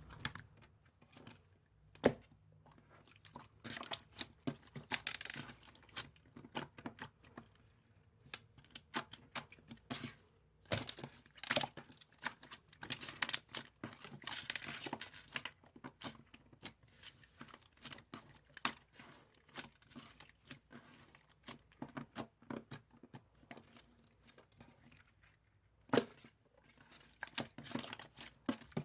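Clear slime packed with rainbow beads and plastic parts being pressed, stretched and folded by hand, giving irregular crackling and clicking as the beads pop and rub together. A couple of sharper, louder clicks stand out, about two seconds in and near the end.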